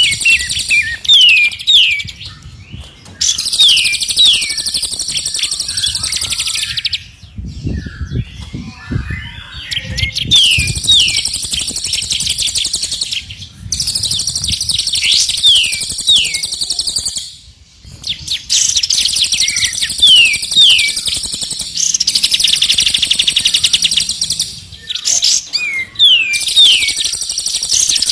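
Songbirds singing loudly in bouts of a few seconds: sharp falling whistles, fast trills and dense high chatter, with short pauses between phrases and a longer lull about seven seconds in. This is recorded master birdsong played to train and stimulate caged songbirds.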